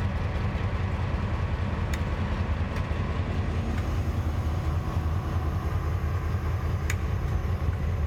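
TasRail DQ class diesel locomotive running with a steady low rumble as the ore train is tippled, with a few faint sharp metallic clicks.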